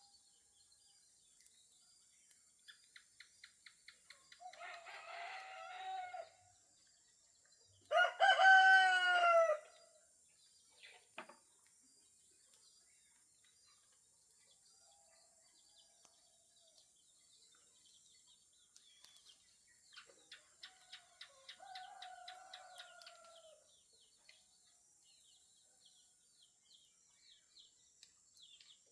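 Roosters crowing: a quieter crow about four seconds in, a loud one about eight seconds in, and another around twenty seconds in. Small birds chirp in short rapid series between the crows.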